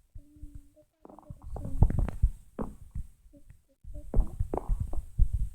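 Slime mixture being stirred and pressed with a plastic spoon, a dense run of soft wet squelches and low thumps in two bursts, with a short pause between them.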